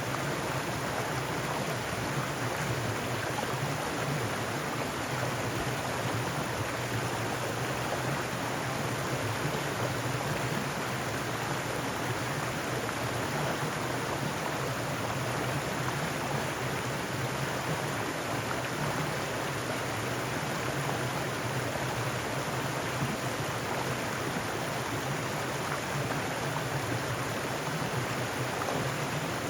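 Mountain stream rushing over rocks, a steady, unbroken water sound.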